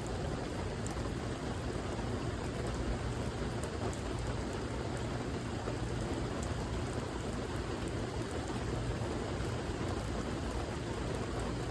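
Steady rain falling, an even hiss of drops with faint scattered patters of individual drops.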